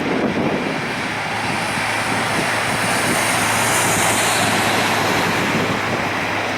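Airbus A319's CFM56 jet engines running: a steady roar with a low hum under it and a high hiss that swells and fades in the middle.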